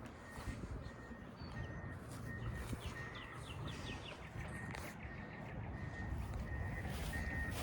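Birds chirping outdoors over a low steady background rumble, with a rapid trill of short notes about three seconds in.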